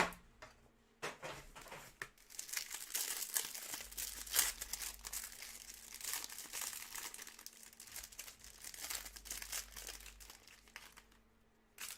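Plastic wrapping on trading card packs crinkling and tearing as the packs are opened and handled, in irregular rustles with a few sharper crackles.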